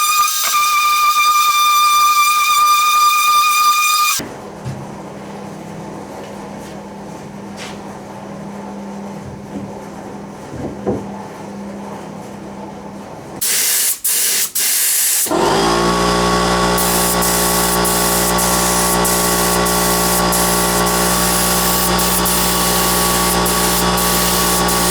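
Electric workshop power tools running: a steady high whine, then a quieter hum with a few knocks, a brief loud hiss, and about two-thirds of the way in a motor spinning up to a steady buzzing whine that cuts off suddenly at the end.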